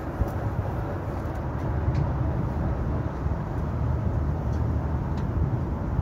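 Low, steady rumble of a diesel multiple unit approaching along the line, with a few faint clicks.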